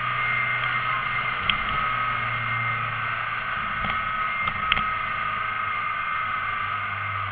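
Alfa Romeo Giulietta engine running steadily, a low drone with a steady high-pitched tone above it. Two short sharp clicks sound, one early on and a louder one about halfway through.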